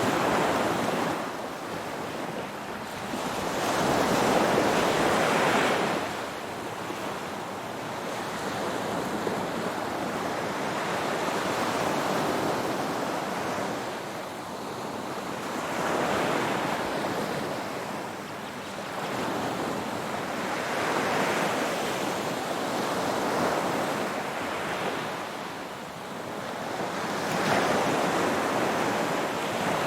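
Ocean waves breaking and washing on a shore, a continuous surf hiss that swells and ebbs every few seconds, with the loudest surges a few seconds in and near the end.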